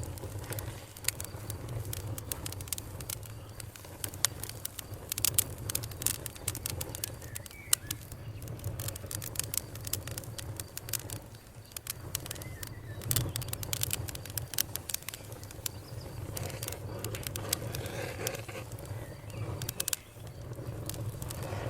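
Wood fire crackling, with many irregular sharp pops and snaps over a steady low hum.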